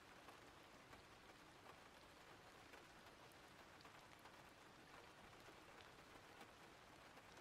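Faint, steady rain: an even hiss with scattered drops ticking.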